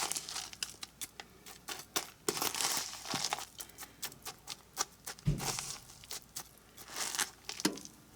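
Fork clicking and scraping against a dish, with a crackly crinkling, as a chicken tender is turned over and coated in crushed pork-rind crumbs; a dull knock about five seconds in.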